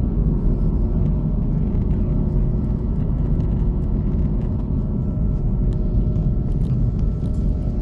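Steady low rumble of an Airbus A330-300's jet engines with a few faint steady whining tones over it, as the airliner waits or taxis ahead of its takeoff roll.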